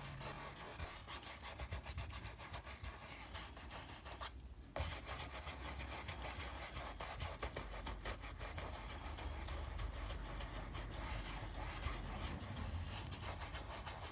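Paintbrush scrubbing and dabbing on canvas: quick, repeated scratchy strokes that break off briefly about four seconds in.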